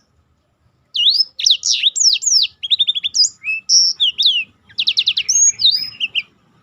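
Black-throated canary (blackthroat) singing: after about a second of silence, a fast, varied song of high rising and falling whistled notes with quick rolling trills, ending shortly before the end.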